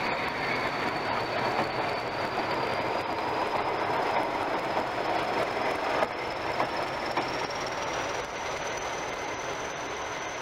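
Railway coaches rolling past on the rails: a steady clatter of wheels on track with a few sharper knocks, the loudest about six seconds in. Over it runs a thin, high whine that rises slowly in pitch throughout.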